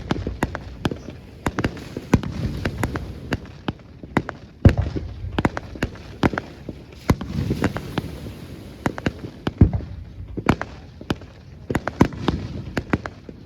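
Fireworks display: a continuous run of sharp bangs and crackles, with a few heavier booms about five seconds in, near ten seconds and just after.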